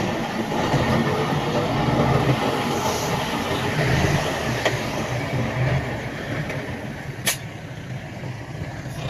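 Heavy earthmoving machinery running with a steady low rumble, with a sharp click about seven seconds in.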